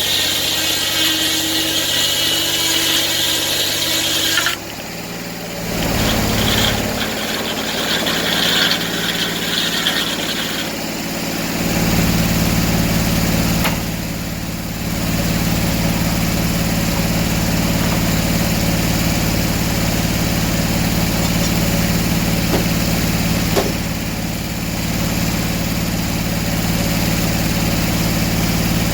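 An engine running, with a high whine over it; it drops off about four and a half seconds in, picks up again, and settles into a fuller, steady run from about twelve seconds on.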